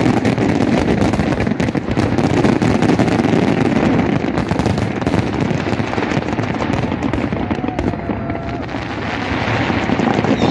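Fireworks display going off in a dense, rapid barrage of bangs and crackles, easing slightly about eight seconds in.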